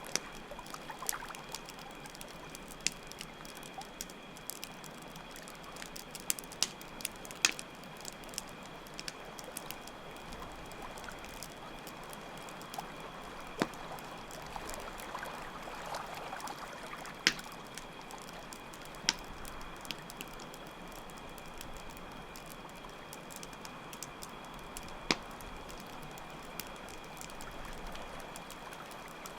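Campfire crackling with scattered sharp pops, over steadily running water and crickets chirping without a break.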